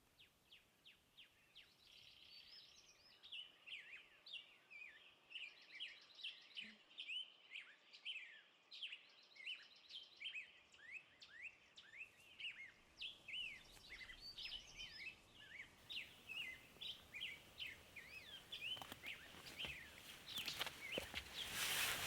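Faint chorus of small birds: many short chirps, each a quick upward or downward sweep, overlapping throughout. Near the end a rustling noise with scattered clicks grows louder.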